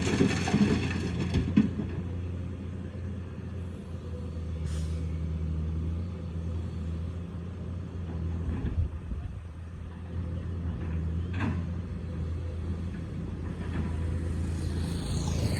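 Excavator's diesel engine running steadily under work, with a cluster of clanks near the start and single sharp knocks about five and eleven seconds in.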